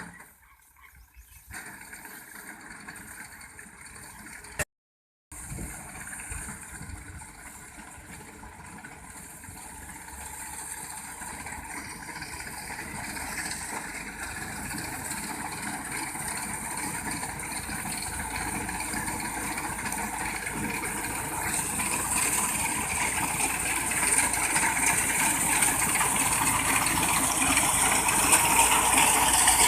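Massey Ferguson 260 tractor's diesel engine running, growing steadily louder, with a brief break to silence about five seconds in.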